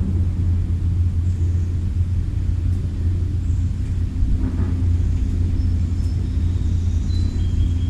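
Steady low rumble throughout, with a few faint, short, high chirps in the second half.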